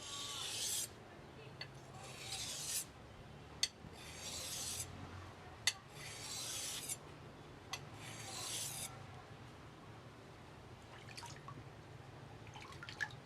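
A shear blade scraped along a sharpening stone in single pushed strokes: five short rasping strokes about two seconds apart, with light clicks between them as the blade is set back, then only faint scraping after about nine seconds.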